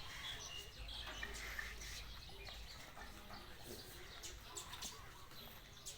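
Faint bird chirps with a few scattered soft clicks and a low background rumble.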